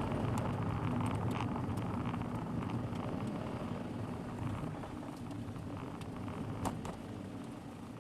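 Car driving noise picked up by a dash camera: steady low road and engine noise that gets gradually quieter, with scattered small clicks and one sharper tick a little before the end.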